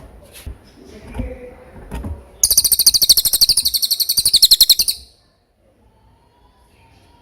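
Cililin (pygmy bushtit) singing: a few soft chirps, then a loud, rapid trill of very high, thin notes lasting about two and a half seconds.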